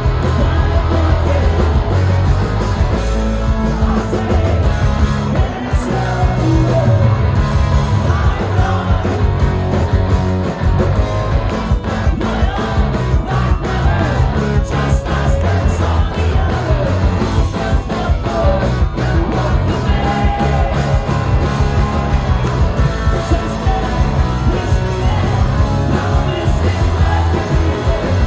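Live rock band playing a song loud, with drums, guitars, bass and sung vocals, the beat steady.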